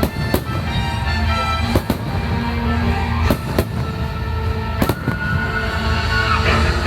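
Fireworks bursting in sharp bangs, about eight of them, several in quick pairs, over loud show music played through the park's speakers.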